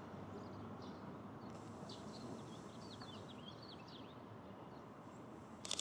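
Faint outdoor background noise with small birds chirping in short, quick calls for a couple of seconds, then a sharp click near the end.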